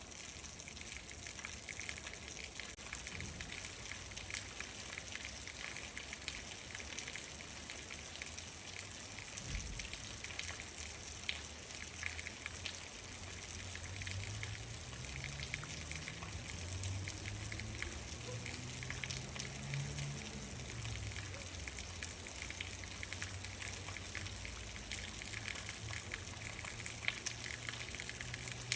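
Steady rain falling, an even hiss with many small drop ticks. In the middle a low hum swells and then fades away again.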